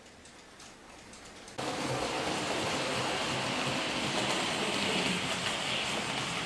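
A quiet moment, then, about one and a half seconds in, an OO gauge model train starts to be heard running on the layout: a steady, even running noise from a Southern Railway D1 4-4-0 white-metal kit locomotive with its old K's motor, hauling coaches over the track.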